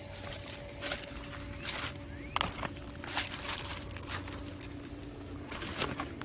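Packaging being handled during an unboxing: scattered rustles and short knocks as items are lifted out of the box, over a steady faint hum.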